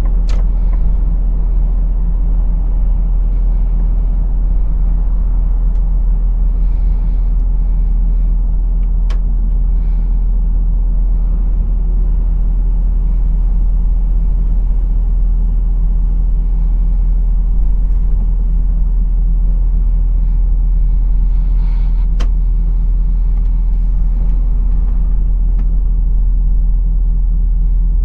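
Truck's diesel engine and road noise as a steady low rumble while driving, with a few sharp clicks along the way.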